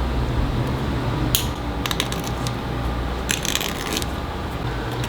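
Light metallic clinks and clicks of small metal pieces striking each other: a single clink, then a couple more, then a quick flurry about three seconds in, over a steady low hum.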